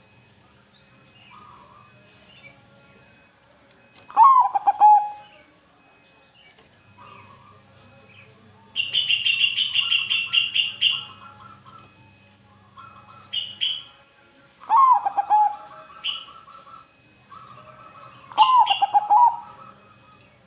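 Zebra dove (perkutut) cooing: three short phrases of wavering, falling notes, about four seconds in, near fifteen seconds and near the end. A two-second run of rapid high chirping comes about nine seconds in, over a faint low steady hum.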